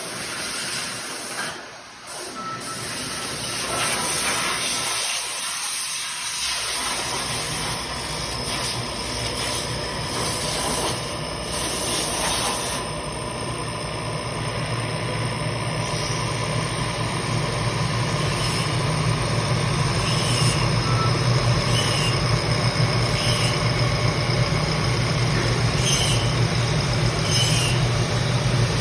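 Milling machine running, a steady hiss with a low hum that comes in after several seconds and grows gradually louder.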